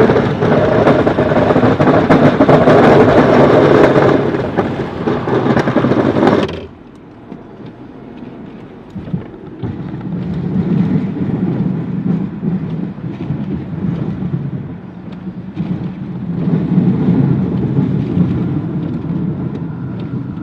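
Road vehicles in a snowstorm. A loud rushing passage lasts about six seconds and cuts off suddenly. Then a quieter engine rumble follows that swells and fades twice.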